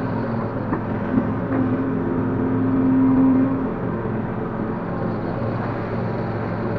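Link-Belt 145X3E hydraulic excavator running steadily at work, its engine note growing stronger and louder for about two seconds from roughly one and a half seconds in before settling back.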